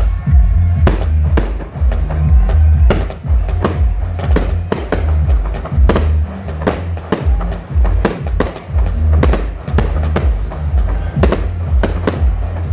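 Fireworks going off in a steady run of sharp bangs, about two a second, over loud music with a heavy, pulsing bass.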